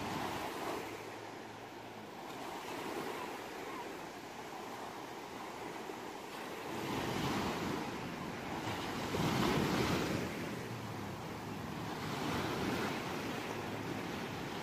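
Ocean waves breaking and washing on a shore, rising and falling in repeated surges every few seconds, the loudest surge a little past the middle.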